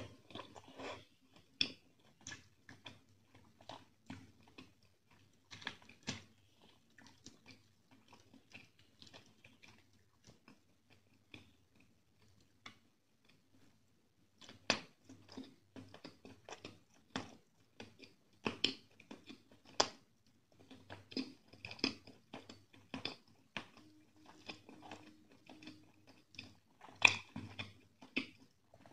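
Close-miked wet chewing of a mouthful of rice and chicken curry, with irregular mouth clicks and smacks. There is a quieter lull roughly a third of the way in before the chewing picks up again.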